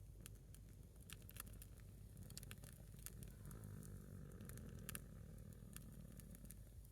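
Faint crackling of a single burning log of firewood: scattered sharp pops and ticks at irregular intervals over a low steady rumble.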